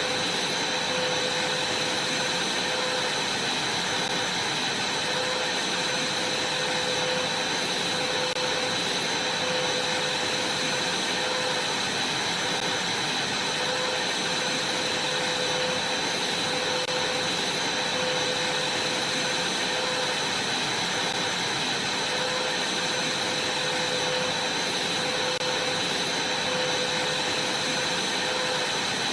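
Vacuum cleaner running steadily: an even rushing hiss with a constant high whine, unchanging throughout.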